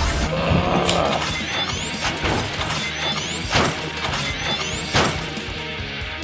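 Background music with crash and shattering sound effects: about four sharp smashes, several led by a quick rising sweep.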